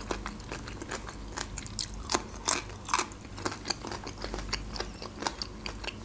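Close-miked chewing of a crisp raw vegetable: irregular crunches several times a second, a few louder bites about two to three seconds in.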